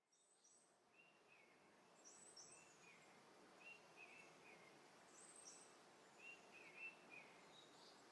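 Soft forest ambience fading in: a steady faint hiss with a small songbird repeating short chirping phrases, each a high note followed by a few lower falling notes, roughly every second and a half.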